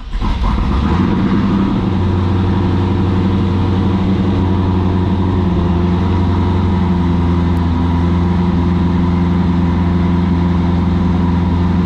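A 2002 Corvette Z06's 5.7-litre LS6 V8, fitted with Kooks long-tube headers, just after starting. It is uneven for the first two seconds, then settles into a steady cold-start idle that the owner calls quite healthy.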